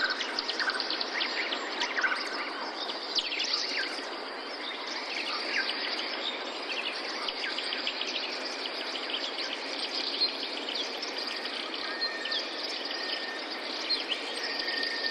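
Many birds chirping and calling, with quick falling whistles and fast trills, over a steady even rushing background.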